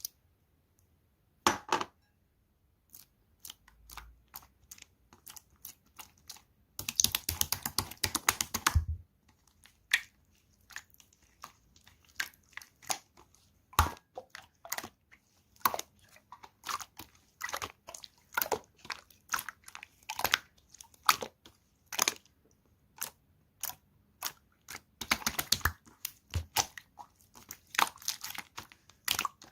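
Clear slime being pressed and squished by hand, giving irregular sharp clicks and small pops, with two runs of rapid crackling, about seven seconds in and again near the end.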